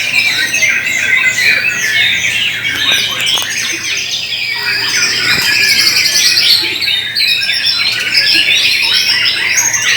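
Several caged white-rumped shamas singing at once in contest: a dense, unbroken mix of fast trills, chirps and harsh calls.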